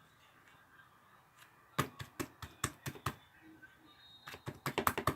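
Slime being squeezed and pressed by hand, making sharp popping clicks: about six in the middle, then a quicker run near the end.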